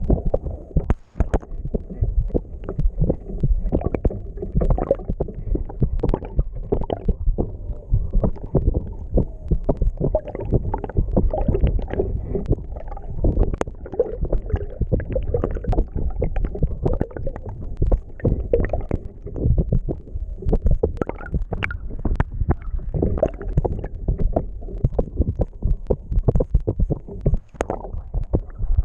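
Muffled water rushing and gurgling past a submerged camera housing as the boat sails, a continuous low, irregular rumble with small knocks.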